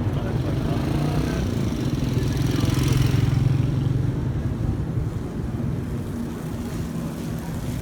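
A motor vehicle's engine running. It rises, revving and getting louder about three seconds in, then eases back to a steady run.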